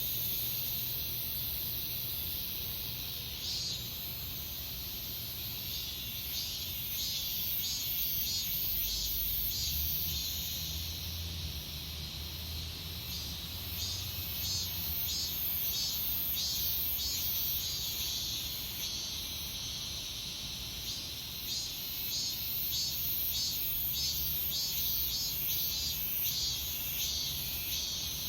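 Cicadas singing in late summer: a steady high buzz with a pulsing call layered over it, repeating about twice a second.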